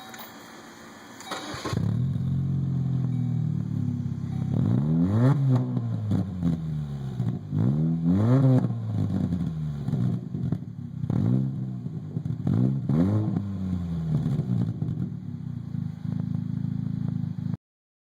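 A 2004 Chevrolet Malibu Classic's 2.2-litre four-cylinder engine, breathing through a Vance and Hines motorcycle muffler in place of the stock one, starts about a second and a half in and runs, with about four quick revs that rise and fall back to idle.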